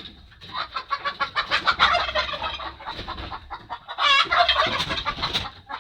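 Chickens clucking in quick, overlapping calls, with one louder, longer call about four seconds in.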